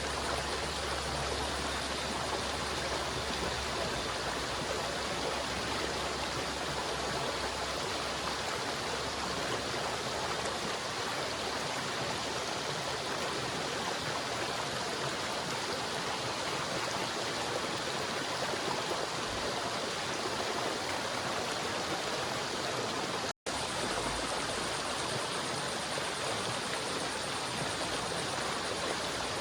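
River water flowing steadily over stones, a continuous rushing and babbling. About 23 seconds in the sound drops out for a split second, then carries on as before.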